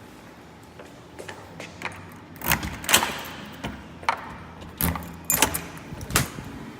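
A series of sharp clicks and knocks, about eight, the loudest around the middle and in the second half, with no steady sound under them.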